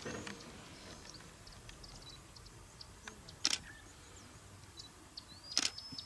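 Quiet bush ambience: scattered short, high bird chirps and whistles, with two sharp clicks, one about three and a half seconds in and one near the end.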